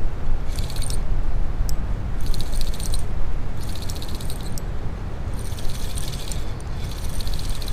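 Fishing reel clicking in about six short spurts as a hooked fish is played, over the steady rush of river water.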